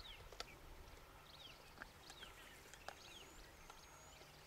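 Faint bird calls: short downward-sliding chirps repeated every second or so, with a couple of brief high whistled notes, plus a few faint clicks.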